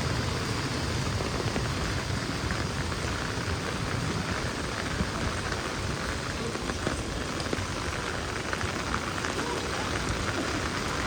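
Heavy rain falling and pattering on hard surfaces, a steady dense hiss full of small drop ticks.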